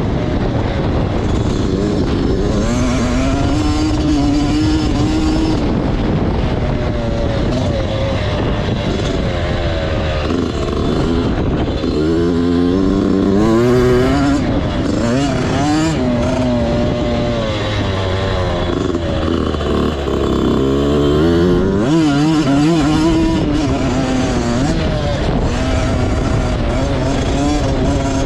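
Motocross bike engine running hard, its pitch repeatedly climbing and dropping as the throttle is worked and gears change.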